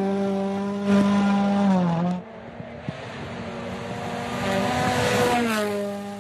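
Rally car engine at high revs on a gravel stage, held steady, then dropping in pitch and level about two seconds in. It builds again and drops once more near the end.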